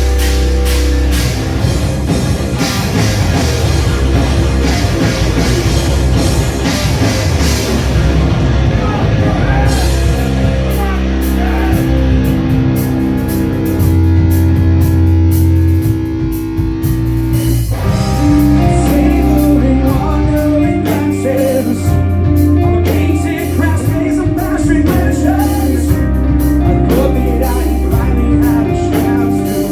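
A live rock band playing loudly, with distorted electric guitar, bass, drums and vocals. About two thirds of the way through, a held chord stops abruptly and the band moves into a new section.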